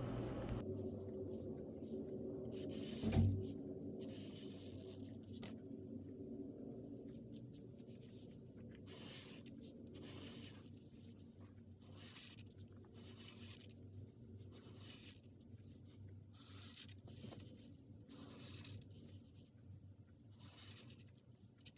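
A pen drawing on sketchbook paper: a long run of short, irregular scratchy strokes as lines are drawn, faint throughout, with one soft thump about three seconds in.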